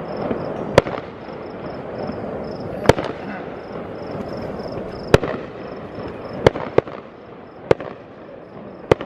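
Fireworks going off: seven sharp bangs at uneven intervals, over a steady background noise.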